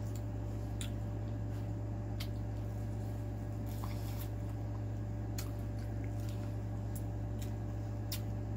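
Close-up mouth sounds of eating sauce-covered corn on the cob: scattered wet lip smacks and chewing clicks, a few every second or so, over a steady low hum.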